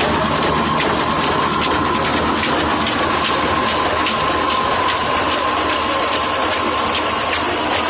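Diesel engine running steadily, with a steady high whine over a dense, even mechanical noise.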